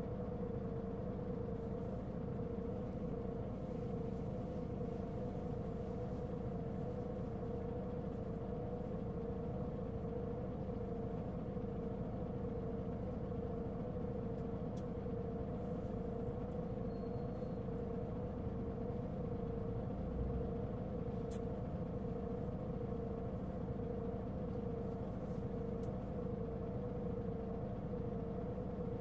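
Mitsubishi Fuso Aerostar city bus's diesel engine and drivetrain running, heard from inside the cabin: a steady low drone under a strong, slightly wavering whine that holds one pitch throughout. This is the loud abnormal noise this particular bus was known for.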